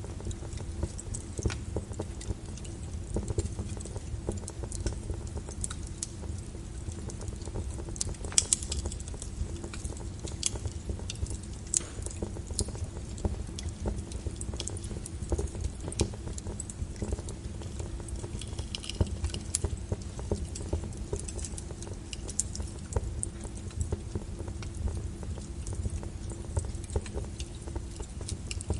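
Wood logs burning in a fireplace, crackling and popping irregularly over a steady low rumble, with the sharpest pops about eight and twelve seconds in.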